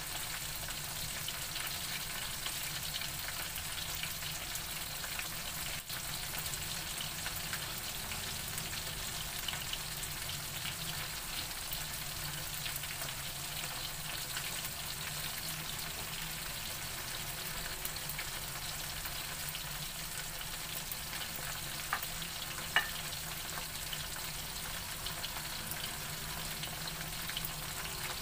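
Flour-coated chicken intestines deep-frying in hot oil: a steady, even crackling sizzle. Two sharp clicks come about three-quarters of the way through.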